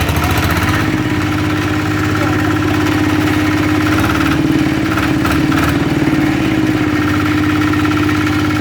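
Small engine that has just caught, running steadily at idle.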